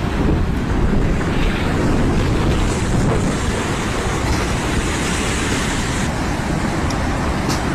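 2011 Japan tsunami floodwater rushing past in a dense, steady flow, with wind buffeting the microphone.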